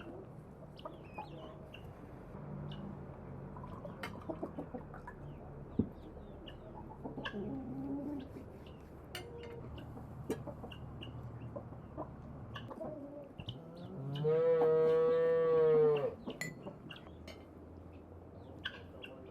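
Farmyard sounds: hens clucking and scattered small chirps over a low background, then about fourteen seconds in a single loud, level livestock call lasting about two seconds.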